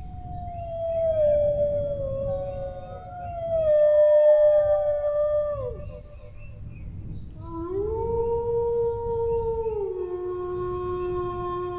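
Dogs howling: long drawn-out howls that slide down in pitch, two overlapping in the first half. After a short break a howl rises, holds and steps down to a lower note, over a steady low rumble.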